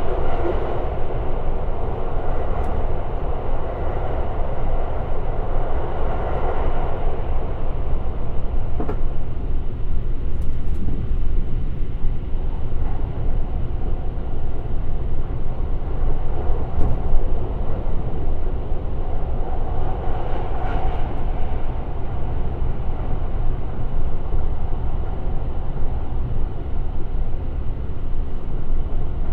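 Limited Express Shirasagi electric train running along the line: a steady rumble of wheels on rails with a hum that swells near the start and again about two-thirds through, and a few scattered sharp clicks.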